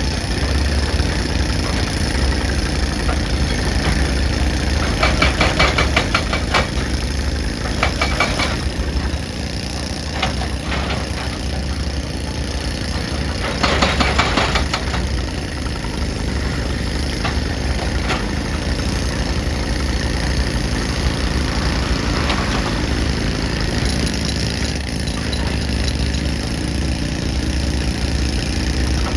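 Excavator diesel engine running steadily, with several bursts of clattering about five to eight seconds in and a louder one near the middle.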